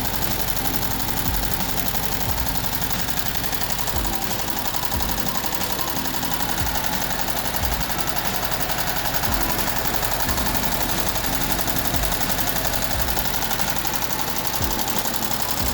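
VW Type 1 36 hp air-cooled flat-four engine running steadily with a fast, even clatter.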